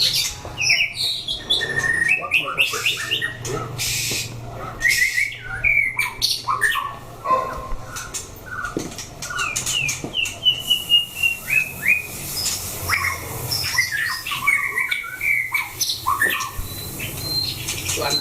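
White-rumped shamas singing: a rapid, varied run of short whistled notes and slides, mixed with sharp clicking and harsh squawk notes.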